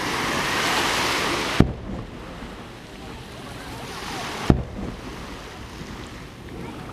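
Two distant aerial firework shells bursting, each a single sharp boom, about three seconds apart, over a steady wash of surf and wind.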